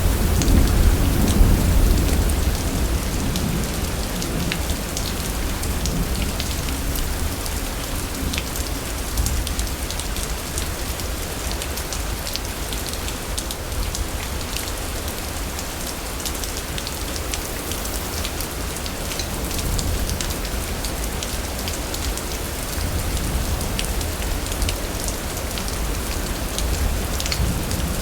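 Steady rain falling, with many small drop ticks, over a low rumble of thunder that is heaviest at the start and swells again near the end.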